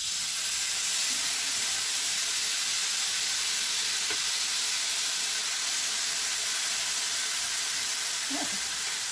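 Sauce from pressure-cooked chicken sizzling in a hot pan with green beans and carrots: a steady, loud hiss that starts suddenly and holds without a break.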